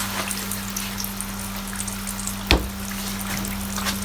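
Food deep-frying in hot oil, a steady sizzle with fine crackling, over a steady low hum. A single sharp knock sounds about two and a half seconds in.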